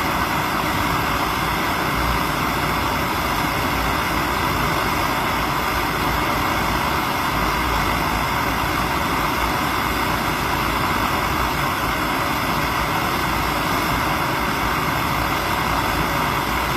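A steady, unchanging mechanical drone, like a running engine or machine, with a hiss strongest in the middle range and no pauses or changes in level.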